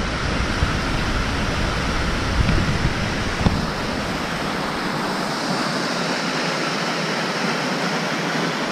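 Steady rush of fast-flowing water from the Silica Rapids stream. A low wind rumble on the microphone runs underneath and stops about three and a half seconds in.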